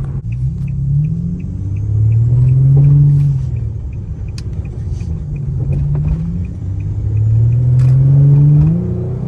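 Infiniti G35's VQ35HR 3.5-litre V6 accelerating hard, heard from inside the car. Its pitch climbs and then drops at a gear change, twice over, with the loudest pulls near three seconds and just before the end. A faint, quick ticking sounds in the first couple of seconds.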